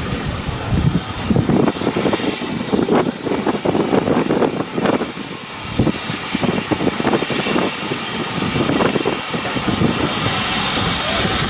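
Steam locomotive working, with a run of uneven exhaust beats, about two to three a second. From about eight seconds in, a steady hiss of steam builds and grows louder.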